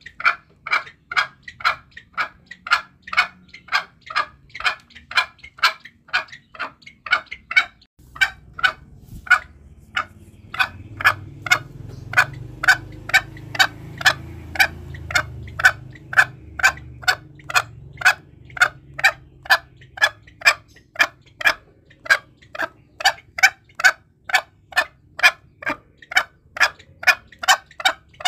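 Green junglefowl giving a long run of short, sharp calls, evenly spaced at about two to three a second. A low background rumble comes in about eight seconds in.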